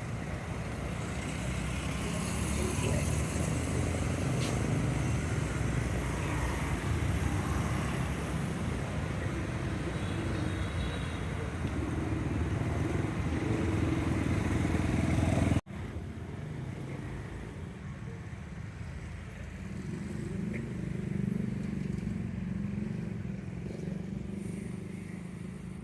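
Street traffic dominated by motorbike engines running, a steady rumble that breaks off sharply about two-thirds of the way in and picks up again a little quieter.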